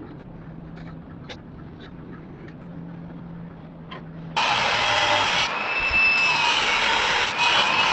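A low hum with faint clicks, then about four seconds in a power grinder cuts in loud on steel, its pitch dipping and recovering as it bites into the metal.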